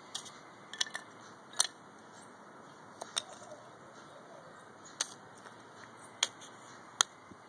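Single light, sharp knocks and clicks, one every second or so, from a wooden craft kit's pieces and nails being handled or tapped.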